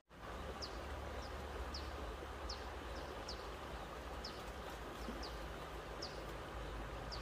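A small bird giving short, high, falling chirps, repeating about once or twice a second, over a steady outdoor rumble and hiss.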